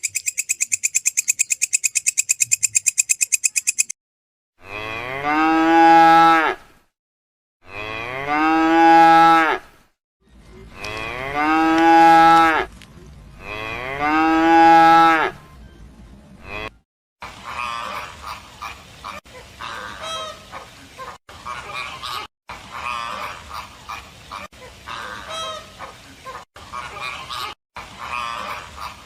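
A farm animal calling four times, each call long and drawn out, after a few seconds of rapid, high, buzzing pulses; from about halfway a softer, busy jumble of short calls takes over.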